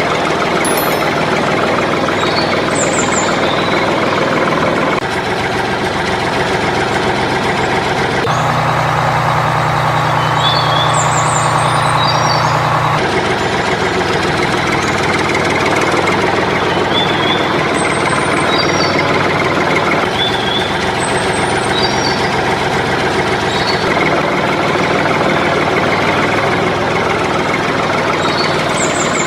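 Tractor engine running steadily, its pitch and tone shifting abruptly every few seconds, with birds chirping now and then.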